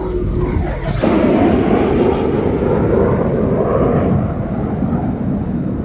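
Loud rushing of wind and choppy water around a small motorboat, with the wind buffeting the microphone. It sets in suddenly about a second in, after a brief steady hum, and eases toward the end.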